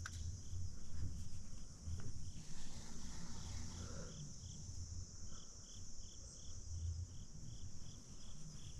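Insects chirping in a steady high chorus, with one clear chirp repeating evenly about three to four times a second through the second half. A low rumble runs underneath.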